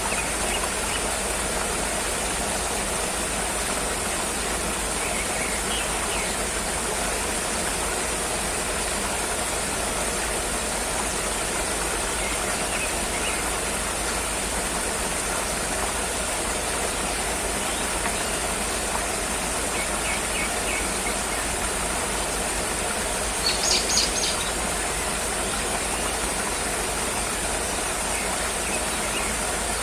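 Steady rushing of flowing water, even and unbroken, with a few faint short high chirps scattered through and a louder brief cluster of chirps a little before the end.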